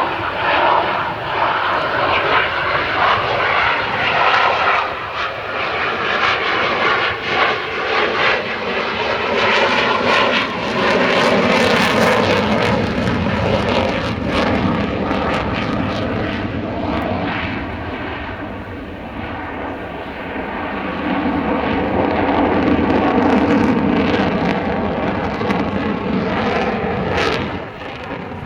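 F-16 fighter jet's engine noise as it flies a display, a continuous rushing roar that ebbs and swells as the jet moves, easing somewhat past the middle and building again later.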